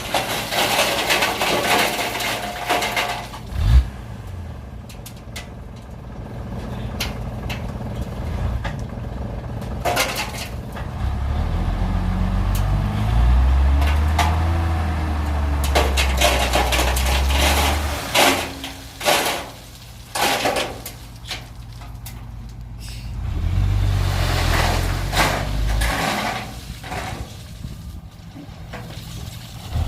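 Excavator's diesel engine running and swelling under hydraulic load twice, with a sharp knock about four seconds in and several clanks later on, typical of the bucket striking rock and gravel.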